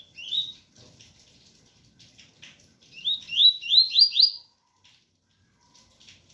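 Coleiro (double-collared seedeater) singing the pure 'tui-tui' song: one short upslurred whistle, then a quick run of about five rising 'tui' notes, over faint rain noise.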